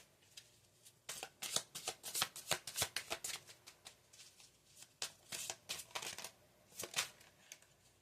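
Tarot cards being shuffled by hand: a run of quick card flicks and slaps lasting a couple of seconds starting about a second in, then shorter bursts near the middle and end.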